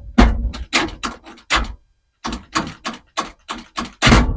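An irregular series of sharp knocks and bangs, some close together, from hands and tools working on parts in the truck while a stereo is being mounted, the loudest just before the end.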